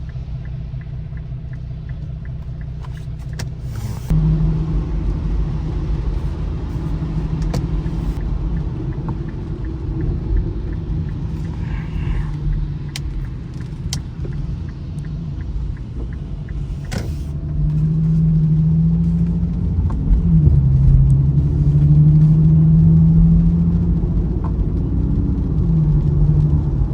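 Infiniti Q50's engine running on the move, with road rumble; its pitch rises and falls as the car speeds up and eases off. It gets louder about four seconds in and is loudest in the second half.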